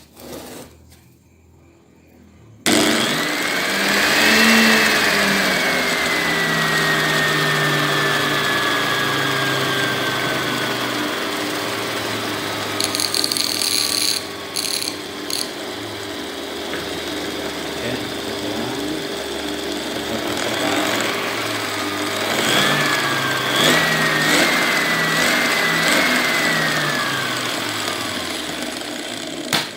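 Hand angle grinder run through a lamp-dimmer speed controller, starting suddenly a few seconds in. Its motor whine climbs quickly, then sinks slowly as the speed is turned down; later it climbs again in small wavering steps and falls away before stopping just before the end.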